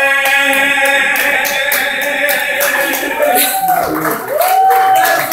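A man's unaccompanied singing voice holds the song's final note, which ends about a second in, followed by a small group clapping, with two short whooping calls near the end.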